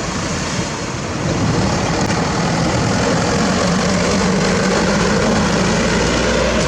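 Heavy diesel engine of construction machinery running steadily, getting louder about a second in.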